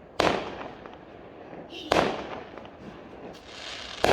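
Fireworks exploding: two loud bangs about a second and a half apart, each echoing away. A third bang comes right at the end.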